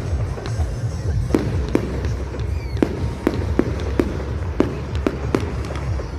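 Fireworks going off in a quick, irregular series of about a dozen sharp bangs, heard over music and a steady low rumble.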